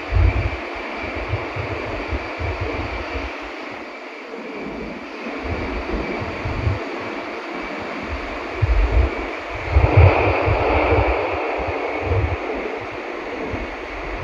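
Cabin noise of a Nishi-Kyushu Shinkansen N700S train running at speed: a steady rushing noise over irregular low rumbling, with a faint steady whine. About ten seconds in the rushing swells louder for a few seconds.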